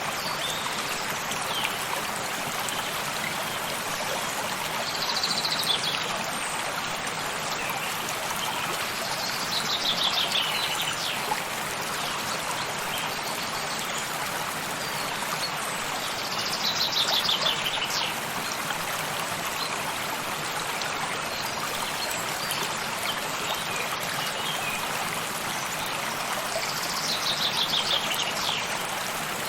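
A stream running steadily, with a songbird singing a short trill that falls in pitch, four times.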